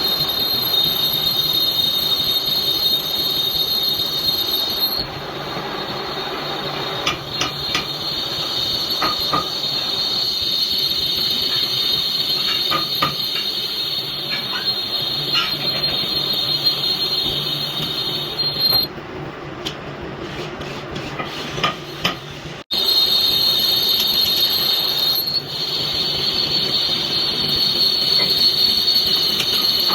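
Lathe turning a metal piston, the cutting tool giving a steady high-pitched squeal over the machine's hum. The squeal drops out and comes back abruptly a few times, with scattered light ticks of chips or tool contact in between.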